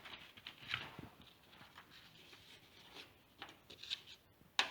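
Faint, intermittent scratching and rubbing of a felt-tip pen or pencil on paper, with a sharp click near the end.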